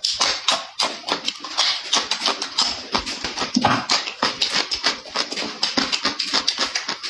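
Close-miked chewing and lip smacking while eating, a rapid run of wet clicks and smacks several times a second.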